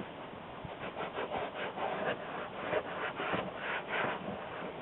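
Soft nail brush scrubbing a leather car seat with leather cleaner, in quick repeated back-and-forth strokes, working dirt out of the grain.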